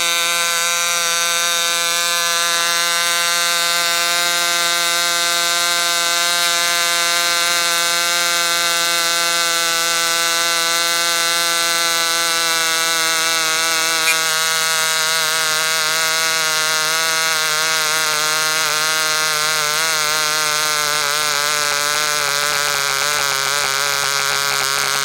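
Enya 15 CX glow-plug two-stroke model engine running a 9x5 propeller during its run-in, a loud steady high-speed buzz. About halfway the pitch drops to a lower speed, and near the end the note wavers as the engine runs unevenly.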